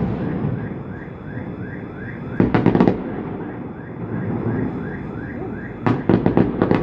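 Fireworks going off: two quick volleys of sharp crackling bangs, about two and a half seconds in and again about six seconds in. Under them is steady background noise and a faint, repeating rising chirp.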